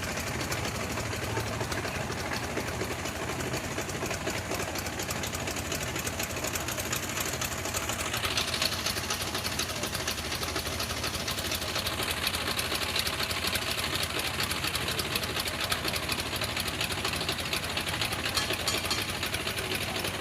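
Tractor engine running steadily with a fast, even clatter; about eight seconds in, the sound turns brighter and harsher and stays that way.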